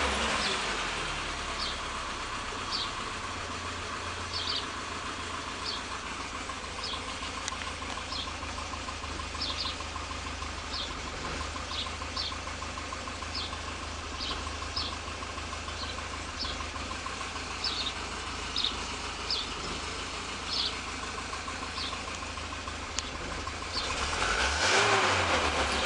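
1973 Opel GT engine idling steadily after a cold start. Near the end the throttle is blipped and the engine revs up and back down.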